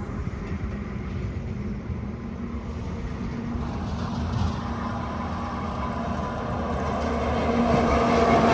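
Heavy diesel trucks passing on a highway: engine and tyre rumble eases after one goes by, then a steady engine note grows louder as the next truck approaches near the end.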